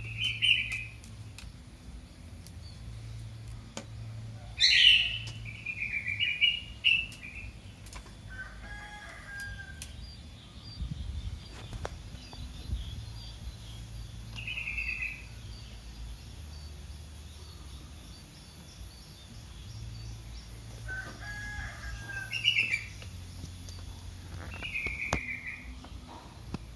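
Young kitten mewing, short high-pitched cries repeated about eight times with pauses of a few seconds between them: a kitten calling for its mother.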